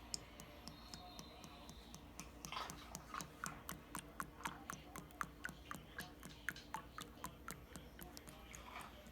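A quick series of light clicks and taps, about three or four a second, picking up a couple of seconds in, over a faint steady hum.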